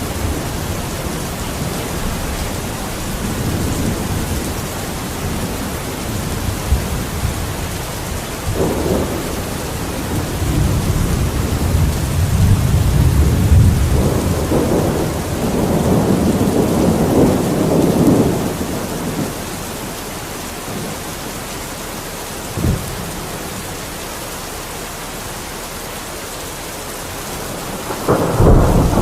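Steady rain with distant thunder: a low rolling rumble swells and fades in the middle, and a sharper, louder thunderclap comes near the end.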